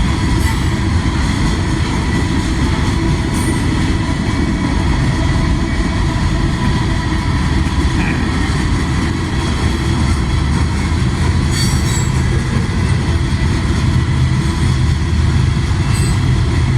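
Freight train passing at about 40 to 45 mph: a steady rumble of rail cars rolling over the track.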